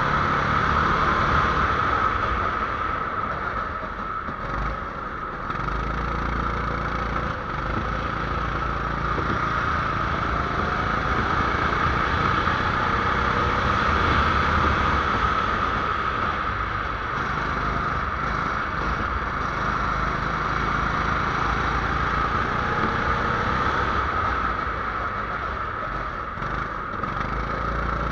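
270cc kart engine running on track, its revs rising and falling, under a steady hiss.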